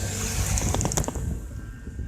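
Wind buffeting the microphone and the low rumble of a mountain-bike ride on the road, with a quick run of sharp clicks or rattles between about half a second and one second in.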